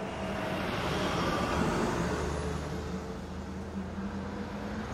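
Road traffic ambience: a vehicle passes, its noise swelling to a peak about two seconds in and then fading.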